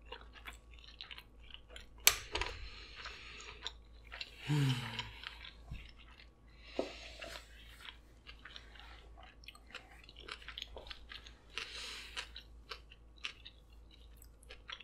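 Close-miked chewing of a mouthful of sushi roll topped with jalapeño slices, with many small wet mouth clicks. There is a brief hummed "mm" about four and a half seconds in.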